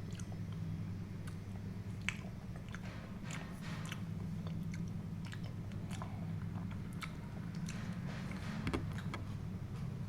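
Close-miked wet chewing and mouth clicks of someone eating creamy white-sauce pasta, in irregular short smacks, over a steady low hum.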